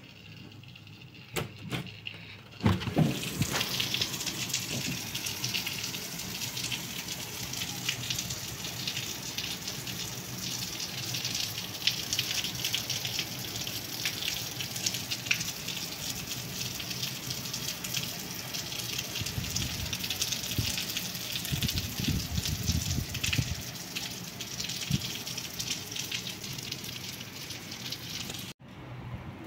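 Heavy rain pouring down onto a street and parked cars, a dense steady hiss that starts suddenly a few seconds in.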